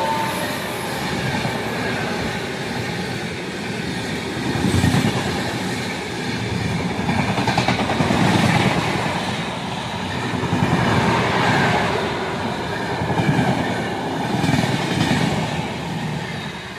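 The 12625 Kerala Express, an express passenger train, is passing at speed on the adjacent track, with its coaches rumbling and clattering by. The sound swells and fades every couple of seconds as carriages go past, and the tail of its horn cuts off at the start.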